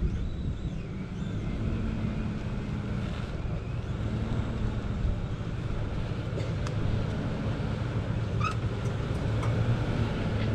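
Jeep engine running steadily at low revs as it crawls over rock, with a few faint clicks in the second half.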